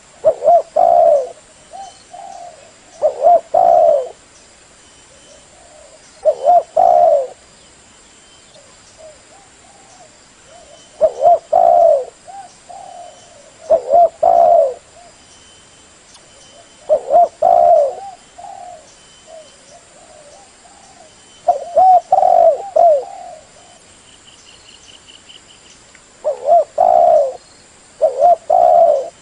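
Spotted dove (tekukur) cooing in repeated phrases of low, bubbling coos. A loud phrase comes about every three seconds, with fainter coos in between.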